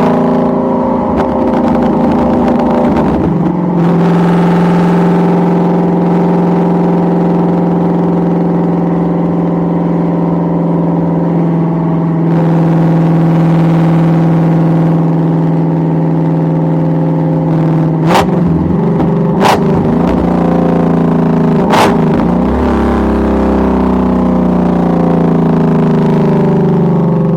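Ford Mustang Shelby GT350's 5.2-litre flat-plane-crank Voodoo V8 running under way, changing pitch about three and a half seconds in and then holding steady revs. Past the middle, three sharp exhaust pops crack out a second or two apart, and the revs then fall away.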